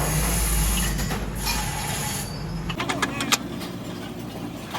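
A low, steady motor hum that stops a little under three seconds in, followed by a quick cluster of sharp metallic clicks.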